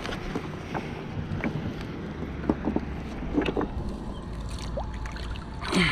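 Wind rumbling on the microphone, with scattered light clicks and taps.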